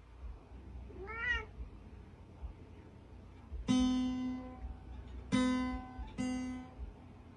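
A cat meows once, a short call that rises and falls in pitch. Then a musical instrument sounds the same steady low note three times, each lasting about a second and starting sharply.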